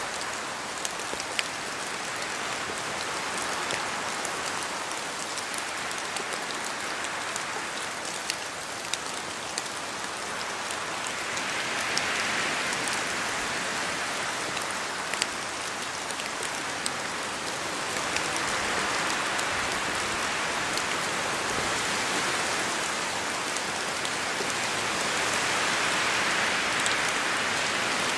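Steady rain falling on forest trees, with many sharp drops striking leaves and slow swells of wind through the canopy every several seconds.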